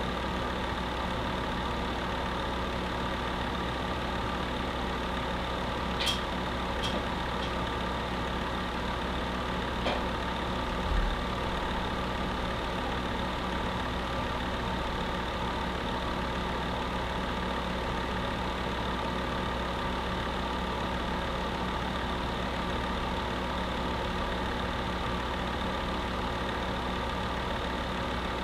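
Electric space heater running: a steady fan whoosh with a low hum. A few light clicks come about six to ten seconds in, and a short low thump follows soon after.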